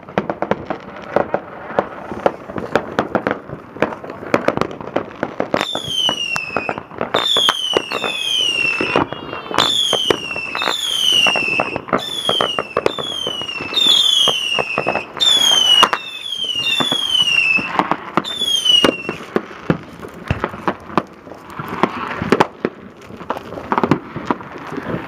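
Fireworks going off, with a continual run of sharp crackling pops. From about six seconds in, for some thirteen seconds, a quick succession of whistling fireworks sounds, each a falling whistle lasting under a second.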